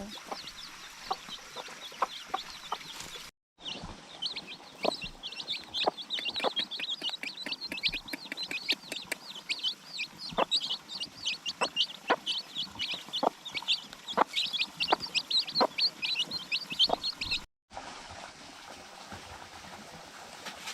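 A flock of poultry chicks peeping, a dense stream of short, high chirps, with sharp clicks scattered among them. The sound cuts out briefly twice.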